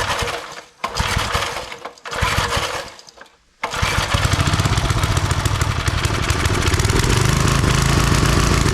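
Old Briggs & Stratton 5 hp single-cylinder engine on a homemade wood splitter firing in three short bursts with gaps between, then catching about three and a half seconds in and running steadily. It will only run well on choke, which the owner takes as a sign that the carburetor needs cleaning.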